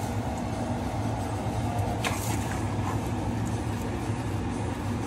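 Brinjal and masala cooking in a steel wok on an electric stove, a steady hiss over a continuous low hum, with one short scrape about two seconds in.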